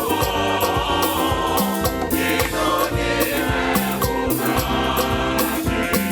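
Gospel choir singing in harmony with band accompaniment and a steady drum beat.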